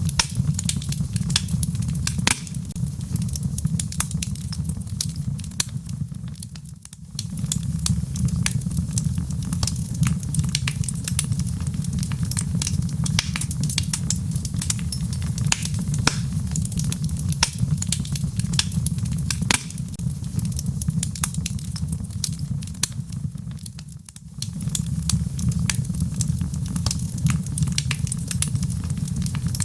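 Wood logs burning in a fireplace: dense sharp crackles and pops over a steady low rumble of flames. The sound dips briefly twice, about seven seconds in and again near twenty-four seconds.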